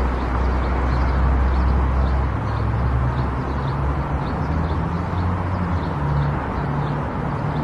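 Car driving on a highway: steady road and engine noise, with the low engine hum shifting up in pitch about two seconds in. A faint high ticking repeats about twice a second.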